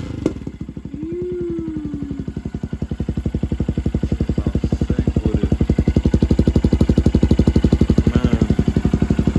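2022 Honda Grom's single-cylinder four-stroke engine idling through an aftermarket Zoom Brute exhaust: a steady, even chug of exhaust pulses that grows somewhat louder.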